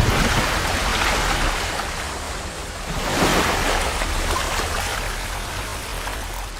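Strong wind buffeting the microphone over rough, choppy water, with waves washing in; the noise surges near the start and again about three seconds in.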